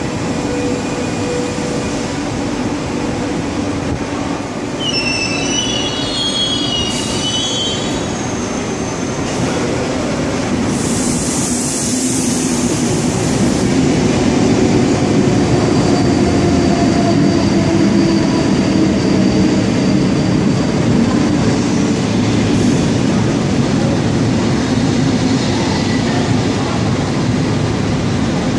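Passenger train rolling slowly past along a station platform: a steady rumble of wheels on rail, with short high wheel squeals about five to seven seconds in and a burst of hiss around eleven to thirteen seconds. The rumble grows louder from about fourteen seconds in as the coaches pass close by.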